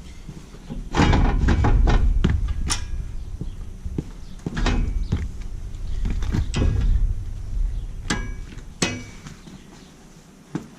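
Steel pieces knocked and clanked together in a metal-fabrication shop: a dozen or so sharp strikes, several ringing briefly, over a low rumble that fades near the end.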